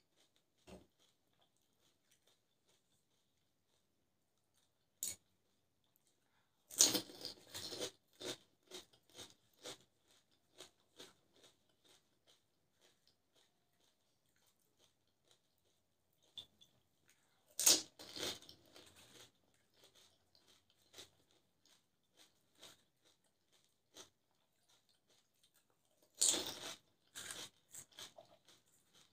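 Pani puri (golgappa) being eaten: a crisp hollow puri shell is bitten three times, each bite a loud crunch followed by a second or two of quieter chewing crunches, with quiet gaps of several seconds between bites.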